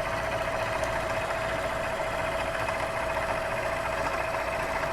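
Bridgeport milling machine running with its end mill cutting into a metal block: a steady machine whine with a continuous rattly cutting chatter.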